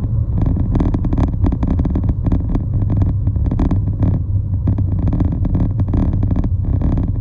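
Motor vehicle running with a steady low rumble, overlaid by frequent irregular knocks and rattles.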